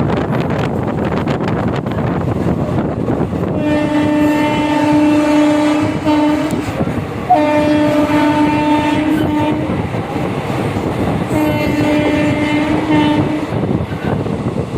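Indian Railways locomotive horn sounding three long blasts, each about two to three seconds, over the steady rumble and rush of the moving train.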